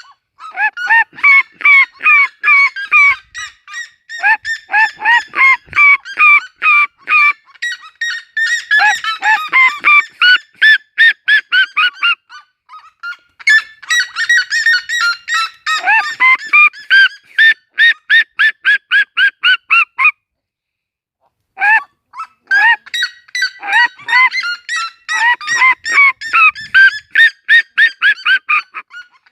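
Red-legged seriema calling: long bouts of loud, rapid yelping notes, about three a second, broken by a short pause about two thirds of the way through.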